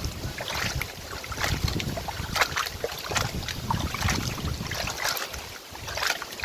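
Chopped chicken back being washed by hand in salted water: irregular splashing and sloshing, with wind rumbling on the microphone.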